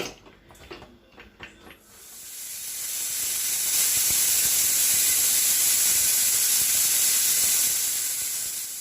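A few light clicks, then a stovetop pressure cooker's whistle: steam hissing out, swelling about two seconds in, holding steady and fading near the end. It is one of the counted whistles that time the cooking of the mutton.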